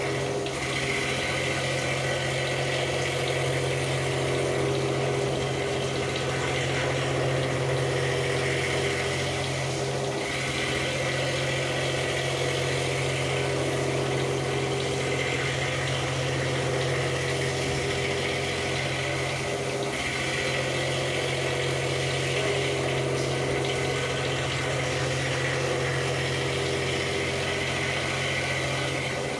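CNC milling machine running while it machines a cast pump volute: a steady machine hum under a higher cutting whine that breaks off briefly about every ten seconds as the tool moves between passes.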